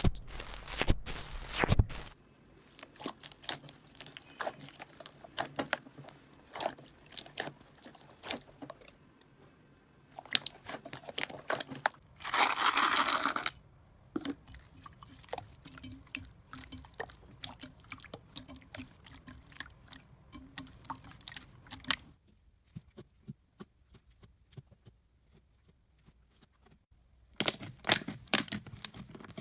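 Slime being handled for ASMR: a run of crackling, clicking and squishing sounds. About twelve seconds in comes a louder noisy rush lasting about a second and a half. Later there is a few-second lull with only faint clicks before the crackling picks up again.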